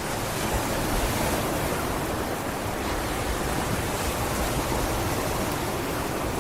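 Sea waves washing onto a sandy beach: a steady rush of surf with no single break standing out.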